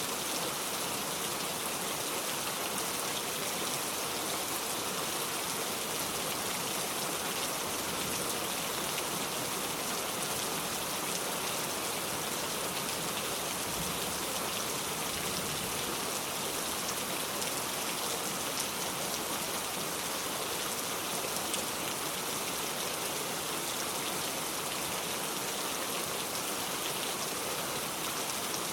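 Steady rain falling on a surface, an even hiss with no let-up.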